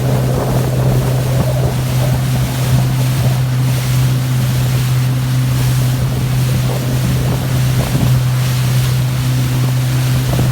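Motorboat engine running at a steady speed, a constant low drone, with wind buffeting the microphone and water rushing past the hull.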